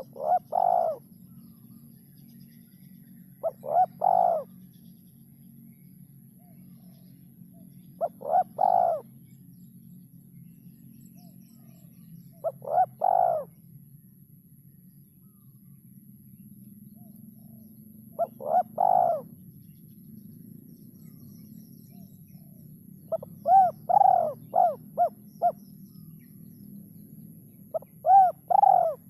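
Spotted dove (derkuku) cooing: a short phrase of coos about every four to five seconds. The last two phrases end in a run of quick short notes.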